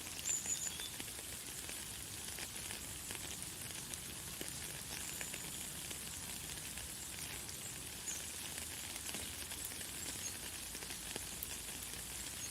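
Light, fine rain pattering steadily, a dense patter of small drops, with a few brief high bird chirps, the clearest just after the start.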